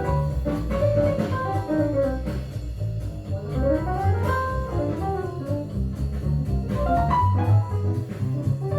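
Jazz recording played back over Klipsch Forte III loudspeakers driven by a Rogue Audio Cronus Magnum III tube integrated amplifier, heard in the room as a sound sample of the system.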